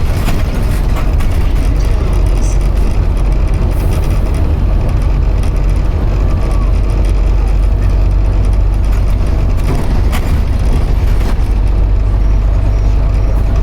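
Scania OmniCity N230UD double-decker bus on the move, heard from inside: a steady low engine and road rumble.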